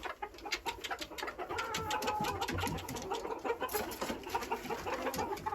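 Chickens making soft, low cooing clucks and trills, with many quick clicks and taps throughout.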